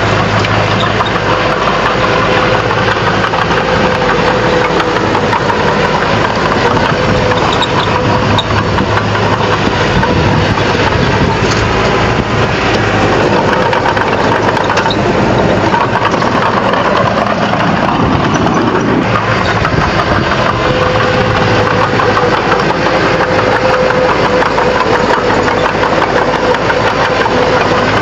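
Bulldozer's diesel engine running steadily and loudly, its note growing rougher for several seconds in the middle before settling back to a steady hum.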